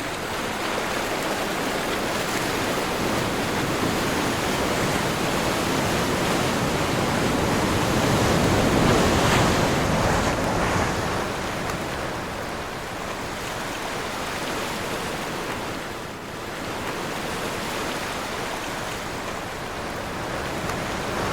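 Ocean waves washing in and out in a strong wind: a continuous rush that swells to a peak about nine seconds in, eases off, and builds again near the end.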